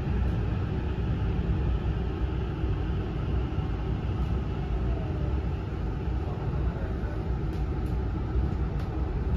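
Hankyu 9000 series electric train heard from inside the car: a steady low rumble of wheels and running gear as it rolls slowly along the platform and comes to a stop.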